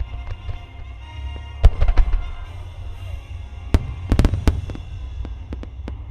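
Aerial firework shells bursting: loud booms about a second and a half and two seconds in, a tight cluster of bursts around four seconds, then a run of smaller sharp cracks, over a steady low rumble. Music plays underneath.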